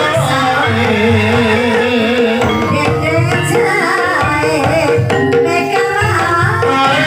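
Ebeg accompaniment music: Javanese gamelan-style ensemble with hand drums and a wavering sung melody over steady held notes.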